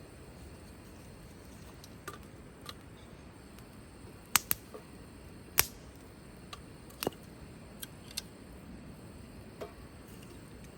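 Wood fire crackling over a low steady hiss, with scattered sharp pops at irregular moments; the loudest is a close pair of pops a little before the middle, followed by another a second later.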